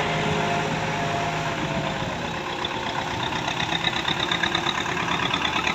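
Diesel engine of a JCB digger running. A steady engine tone fades out about two seconds in, and a rapid, even rattle builds from about halfway through.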